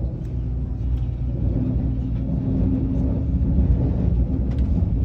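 Inside the carriage of a KTX high-speed train on the move: a steady running rumble with a faint steady hum, growing slightly louder.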